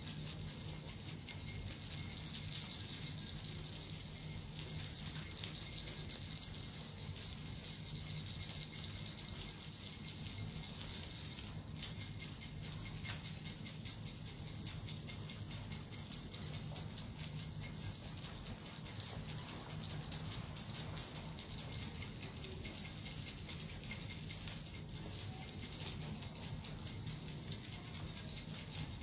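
Small bells and a metal rattle shaken continuously in a fast, unbroken jingle.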